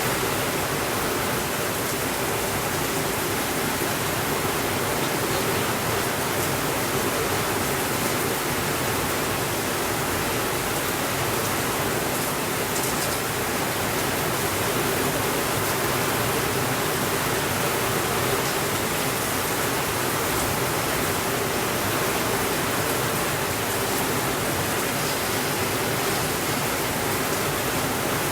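Steady rainfall, an even continuous hiss, with a few faint ticks now and then.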